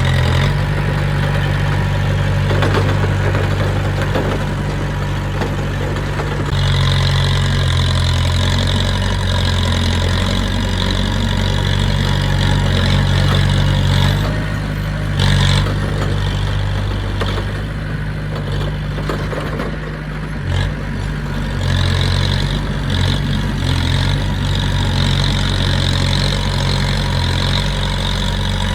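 Diesel engine of heavy earthmoving equipment running steadily, its pitch and load shifting now and then. A high-pitched whine comes in about seven seconds in, drops out about halfway, and returns near the end.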